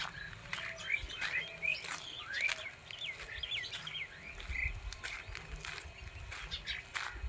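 Several wild birds chirping in the forest canopy, a busy run of short chirps that rise and fall, thickest in the middle stretch. Under them come frequent sharp crackles, typical of footsteps through dry leaf litter on a forest walk, with a low rumble.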